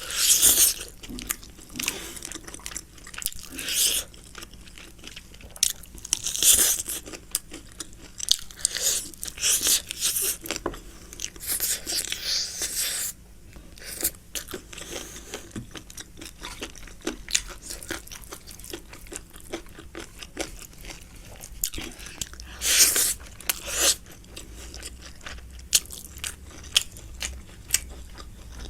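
A person chewing and biting food close to the microphone, with wet mouth clicks and crunches and several louder bursts of chewing noise.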